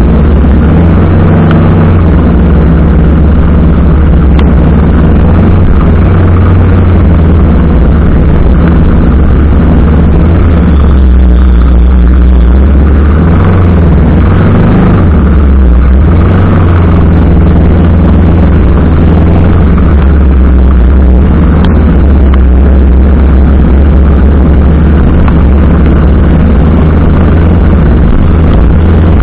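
Single-cylinder engine of a TVS Apache RR 310 motorcycle running under way, loud, over a heavy rush of wind and road noise. The engine note drops for a few seconds in the middle, then picks up again.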